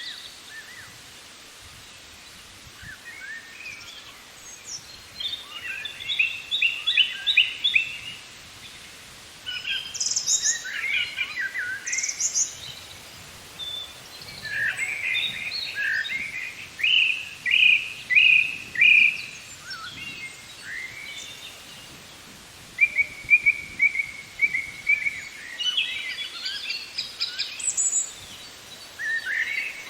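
Birds singing, a mix of fast runs of short repeated chirps and trills that come and go throughout, over a soft steady background noise.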